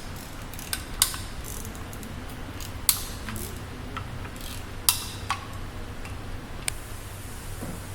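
Sharp metallic clicks and taps, six or so at uneven intervals, from tools and parts being handled during hand disassembly of a BMW S1000RR engine, over a steady low hum.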